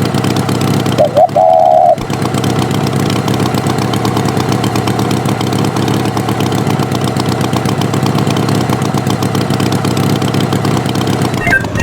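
Tractor engine running steadily, a cartoon sound effect, with a loud short tone lasting under a second about a second in. Music with regular high notes starts near the end.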